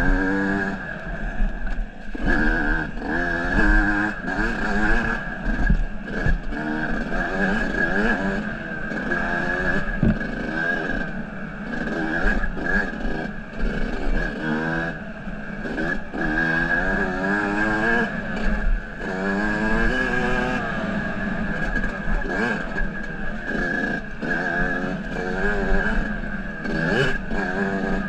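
Motorcycle engine being ridden, its pitch rising and falling every second or two as the throttle is opened and closed, with a steady high whine.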